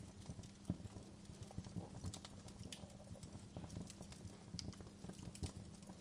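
Wood fire crackling faintly, with irregular snaps and pops over a steady low rumble; one sharper pop about a second in and another near the end.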